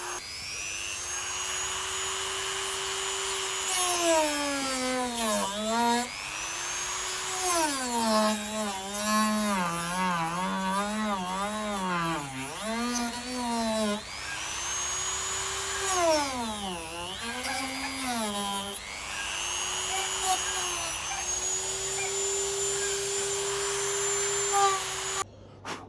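Dremel rotary tool with a cutting wheel whining as it cuts through a perspex windshield. Its pitch drops again and again as the wheel loads up in the plastic and climbs back when the load eases, wavering quickly for several seconds in the middle. It cuts off suddenly near the end.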